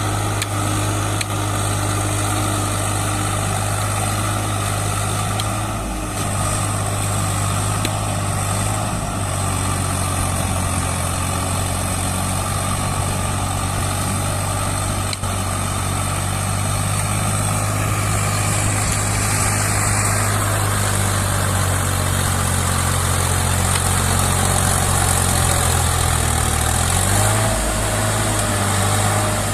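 A tractor's diesel engine running steadily with a low hum, which wavers briefly near the end.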